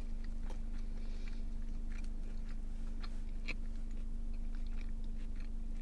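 Close-up chewing of a fried chicken sandwich: small wet clicks and soft crunches from the mouth, scattered irregularly over a steady low hum.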